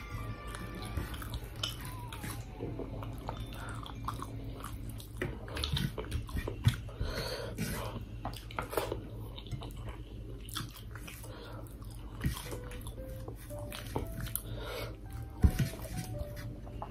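A person chewing and smacking while eating chicken and rice by hand, with a run of short wet mouth clicks and a couple of sharper knocks, the loudest late on. Faint background music at the start and again near the end, over a steady low hum.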